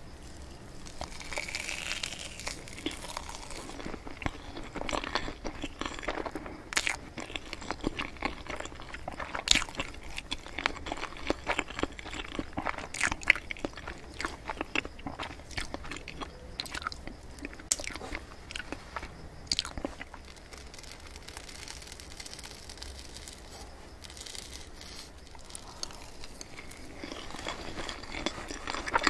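A person chewing a mouthful of soft crepe cake, with many sharp wet mouth clicks and lip smacks; the chewing is quieter for a few seconds past the middle and busier again near the end.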